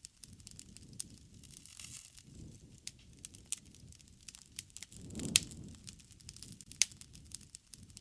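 Wood fire crackling: irregular sharp pops and snaps over the low sound of the burning, with the loudest pop a little after five seconds in.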